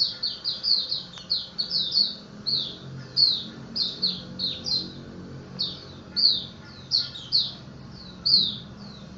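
White-eye (pleci) singing: a fast, unbroken run of short, high, downward-slurred chirps, several a second.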